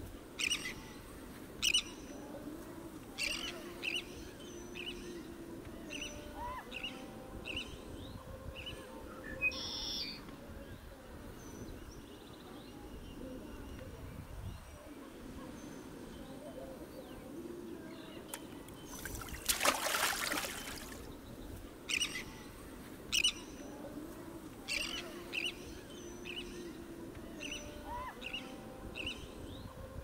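Small birds chirping and calling in short, scattered high notes over a soft, steady low hum of natural ambience, with a brief rushing noise about two-thirds of the way through. The same run of calls comes round again about twenty seconds on, as in a looped nature-sound bed.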